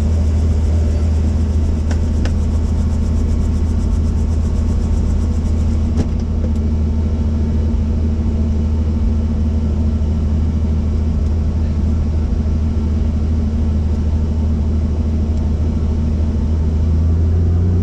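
Helicopter's rotor and engine running with a steady, loud drone. There is a single click about six seconds in, and near the end a tone starts rising in pitch.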